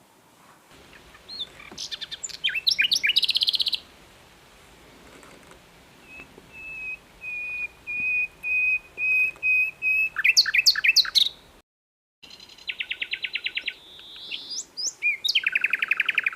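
Common nightingale (Luscinia megarhynchos) singing: rapid trills and chattering phrases, then a slow run of repeated pure whistles that swell louder, followed by more fast buzzing trills. The sound cuts out completely for a moment about two-thirds of the way through.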